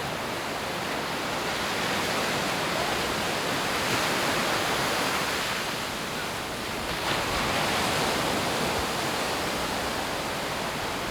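Sea surf washing onto the beach: a steady rushing noise that swells twice.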